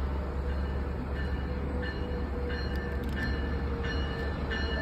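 Amtrak train hauled by an electric locomotive approaching, a steady low rumble, with a bell dinging at an even pace, about one ding every two-thirds of a second.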